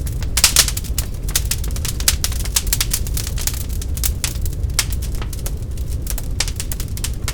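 Wood fire burning in a fireplace, crackling with irregular sharp pops and snaps over a low steady rumble. A quick cluster of louder pops comes about half a second in.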